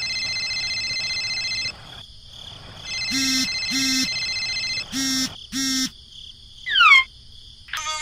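Mobile phone ringing with a steady electronic ringtone, then ringing again with short buzzes in two pairs. Near the end a quick falling whistle effect is the loudest sound.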